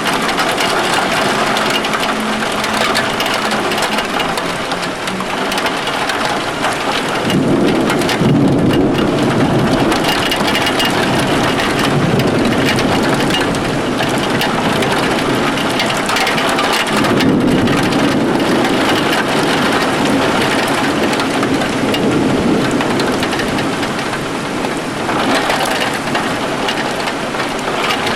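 Heavy rain pouring down, with two long rolls of thunder: one starting about a quarter of the way in, the other a little past the middle.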